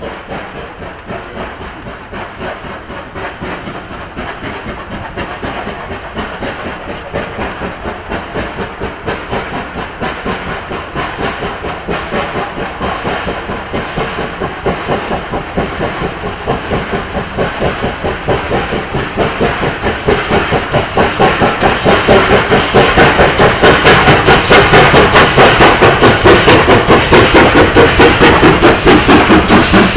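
Steam locomotive working under steam as it approaches, its regular exhaust chuffs with hiss growing steadily louder until it is close by near the end.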